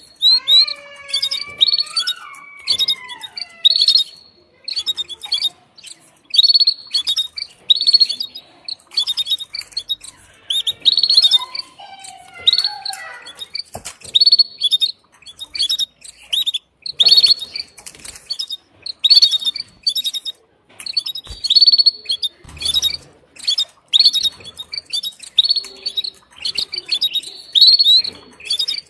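Female canary giving her repeated short, high chirping call, a few notes every second or two: the call a hen canary uses to summon a male for mating.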